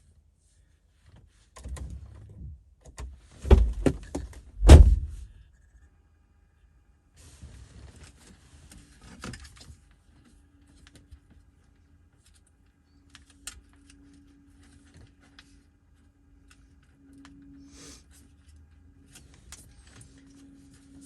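Hands working on a car's dashboard: a series of sharp knocks and rattles of plastic trim and parts being handled, loudest a few seconds in, then scattered small clicks. A faint steady hum comes and goes through the second half.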